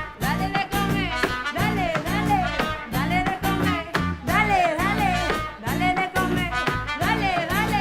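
A live band playing an upbeat song with a steady, regular beat under a melody line.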